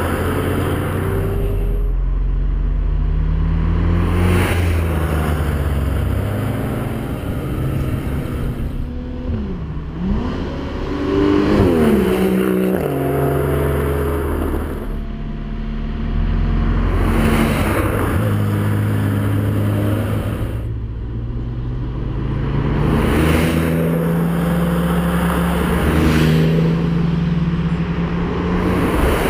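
Car engine pulling along a winding road, its revs holding, then dropping and climbing again with gear changes, most clearly about ten seconds in.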